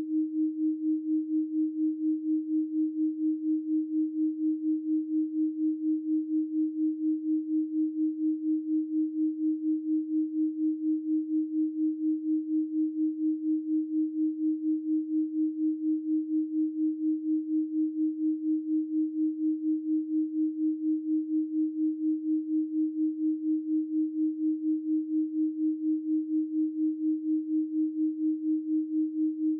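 A steady 312 Hz pure sine tone, one low hum with no overtones. Its level pulses evenly about four times a second.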